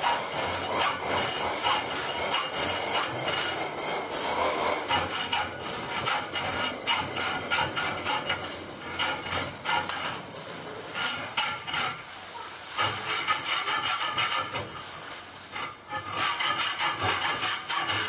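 Hand-tool work on a workpiece: repeated rasping strokes mixed with short knocks, a few a second, easing off somewhat in the middle and picking up again near the end.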